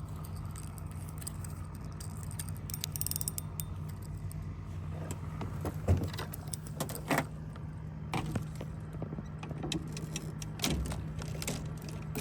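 A steady low mechanical hum with scattered clicks and light knocks from fishing tackle being handled while jigging from a boat.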